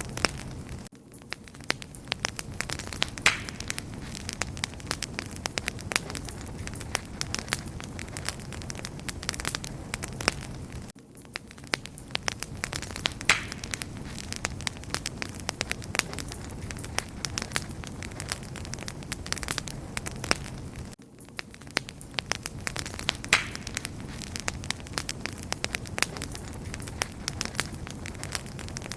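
Wood fire crackling and popping: dense, irregular snaps over a low, steady hiss. The same ten-second stretch repeats, with a brief dip in level at each join.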